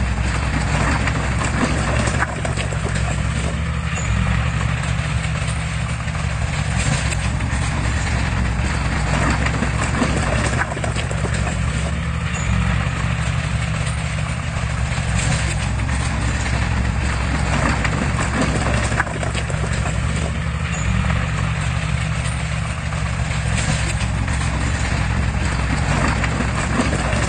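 Diesel engine of heavy construction machinery running steadily, with scattered metallic knocks and clanks over it.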